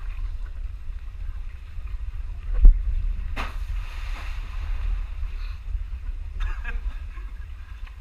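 Wind buffeting the microphone with a steady low rumble, and a single sharp knock a little before the middle.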